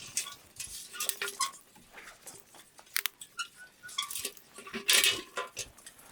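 Irregular light clinks and knocks of small hard objects being handled, some ringing briefly like metal cookware, with a short loud rustle about five seconds in.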